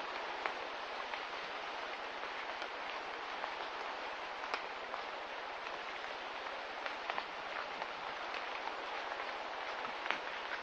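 Steady hiss of light rain, with scattered small ticks of drops landing.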